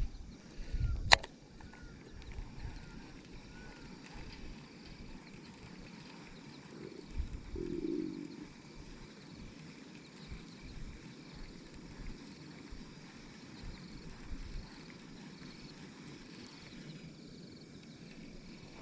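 Quiet outdoor ambience by open water, with a single sharp click about a second in and a few faint chirps.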